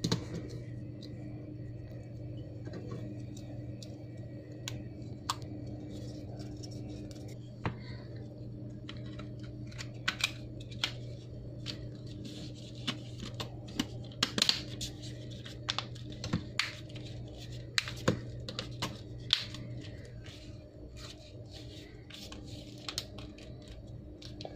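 Scattered small clicks, taps and scrapes of the opened Samsung Galaxy E5's parts being handled as a new battery is fitted in, over a steady low hum.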